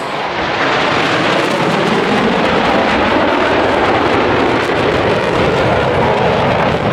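Boeing F/A-18 Super Hornet jets at high power as the four-ship diamond breaks apart low overhead: a loud, steady rushing jet noise that builds slightly in the first second.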